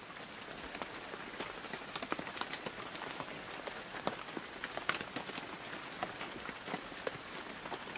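Steady light rain, heard from under a dinghy's cloth boat tent, with many separate drops ticking at irregular intervals.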